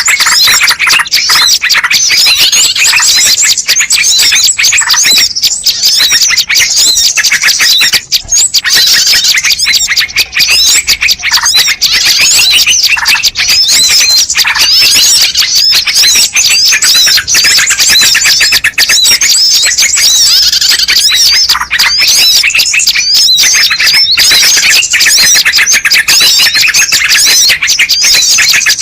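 Bird-lure recording: a dense chorus of many small birds chirping and calling over one another, loud and high-pitched, without a break.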